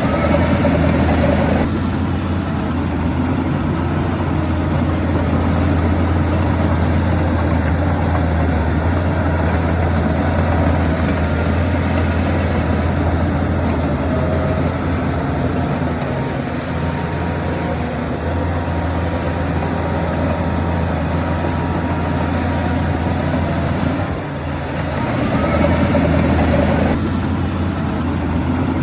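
Heavy diesel engine of earthmoving machinery running steadily under load, its pitch rising briefly near the start and again near the end.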